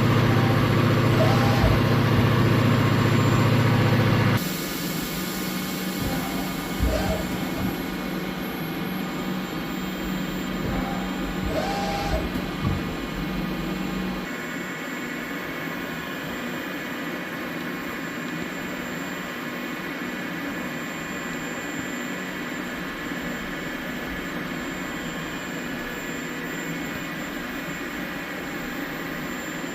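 Takisawa two-spindle CNC lathe running on a test run, a steady machine hum made of several tones. The loudest part cuts off abruptly about four seconds in, and a lower hum stops about fourteen seconds in. A quieter steady hum and hiss carry on after that.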